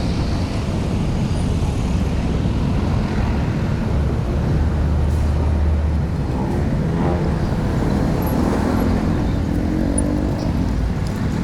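Road traffic noise heard while cycling along a city road, with a steady low rumble of wind on the microphone. A motor vehicle's engine passes about seven seconds in.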